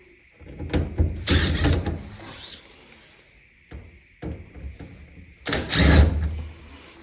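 Samsung dryer's plastic lint filter being worked out of its slot: two scraping, rattling pulls about a second long each, one near the start and one later, with a few clicks between them.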